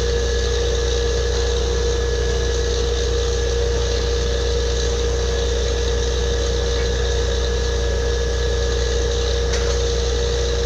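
Borewell drilling rig's engine running steadily: a constant low drone with a steady whine above it.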